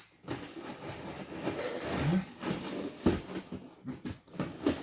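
Packaging rustling and tearing as a parcel is unwrapped by hand, with a sharp knock about three seconds in.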